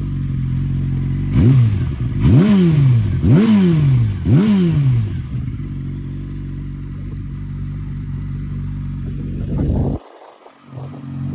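Yamaha R6 inline-four engine idling, blipped four times in quick succession, each rev rising sharply and falling back to idle, then idling steadily. Near the end the sound drops out abruptly for about a second.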